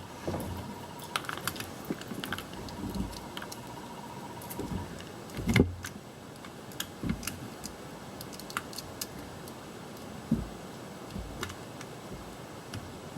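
Light clicks and rattles of hands handling a car's wiring harness wires and connector, with a few soft knocks, the loudest about halfway through.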